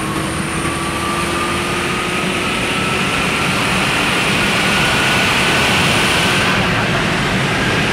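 Car engine under hard acceleration: a loud, steady drone whose pitch climbs slowly and evenly and gets a little louder toward the end.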